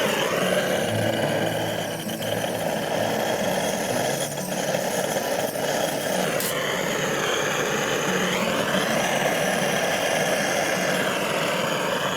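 A small engine running steadily, its pitch sagging and rising again a couple of times.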